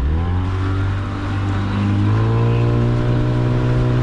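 Small fishing boat's engine throttled up, its pitch rising sharply at the start and again about halfway, then running steadily at higher revs as the boat pulls away.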